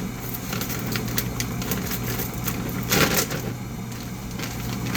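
Scattered clicks and crackles of things being handled, with a louder rustle about three seconds in, over a steady low hum from a running dishwasher.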